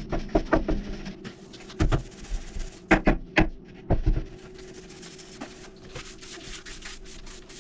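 Irregular knocks and clatter of objects being handled, sharpest around three seconds in, then quieter handling noise, over a faint steady hum.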